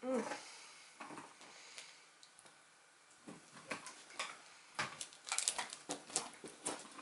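A short hummed 'mm', then small wet clicks and lip smacks of close-up chewing on a soft strawberry-cream-filled marshmallow sweet, coming thicker and faster from about three seconds in.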